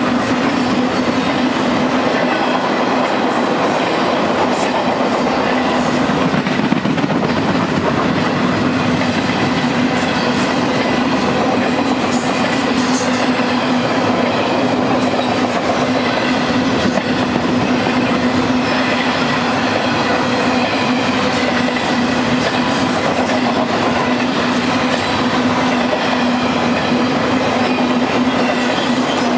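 BNSF intermodal freight train of truck trailers on flat cars rolling past at close range: a steady sound of wheels on rail with a constant low hum.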